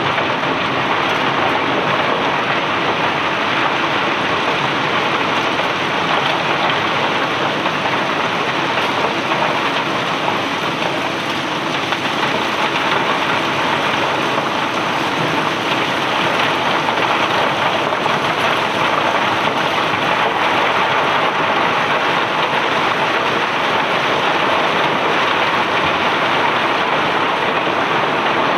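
Cobblestones pouring and rattling off a barge during unloading: a steady, dense rush of countless small stone impacts that does not let up.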